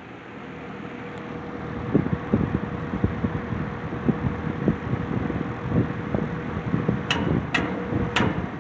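Box fan running, with a steady motor hum and its airflow buffeting the microphone in uneven gusts, growing louder over the first couple of seconds. Three sharp clicks come near the end.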